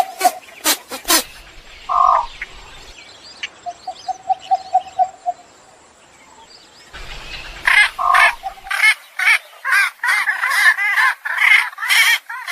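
Egrets calling with harsh croaking squawks: a burst of loud calls at the start, a short quick rattle of about eight notes in the middle, then from about 8 s a fast, dense run of harsh squawks.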